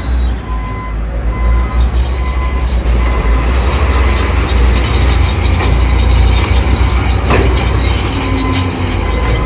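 Bulldozer working rock fill: a steady low diesel engine rumble with squealing and clanking from its steel tracks, and scattered knocks in the second half.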